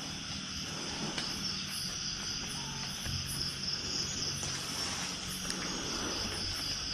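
Night insect chorus: a steady, high-pitched chirring with a faint low drone underneath.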